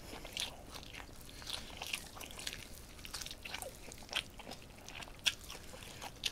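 Close-miked chewing of braised pig's trotter (jokbal): irregular mouth smacks and clicks as the meat and skin are chewed.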